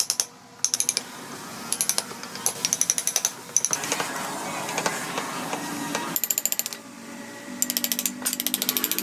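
Short runs of rapid, even mechanical clicking, several times over, like a ratcheting mechanism or small workshop tool, over a low steady hum.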